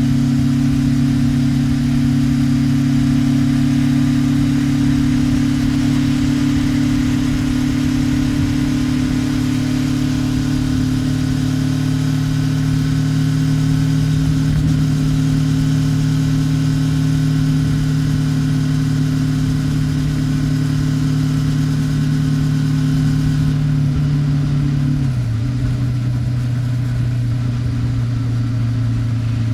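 Honda 400X's parallel-twin engine through its stock muffler, running at a steady cruise with its pitch creeping up slowly. Near the end the pitch drops suddenly.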